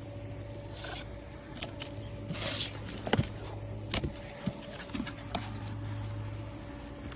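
Foam packaging being handled while a box is unpacked: a brief scraping rustle about two and a half seconds in, then a few sharp knocks and clicks, over a steady low hum.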